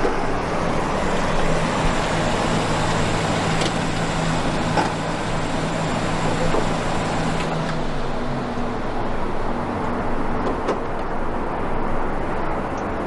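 A car engine running steadily, with a low hum that shifts in pitch about halfway through.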